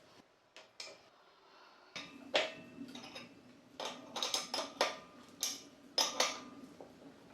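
Metal parts clinking and knocking about a dozen times, some strikes ringing briefly, over a steady low hum that starts about two seconds in.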